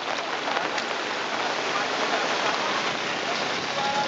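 Steady rain falling, mixed with the rush of the swollen, flooding river.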